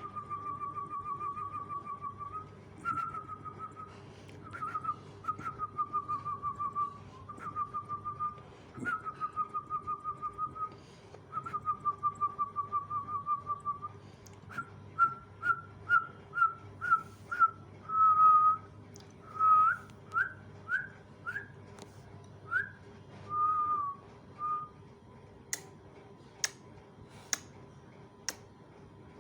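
Whistling: long wavering whistled notes for about fourteen seconds, then a run of short rising whistles, with a few sharp clicks near the end.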